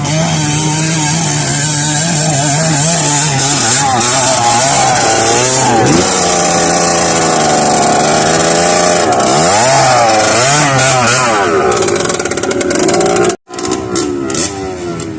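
A trail motorcycle's small engine running hard, its pitch rising and falling again and again as the throttle is worked. The sound cuts out for a moment near the end, then comes back.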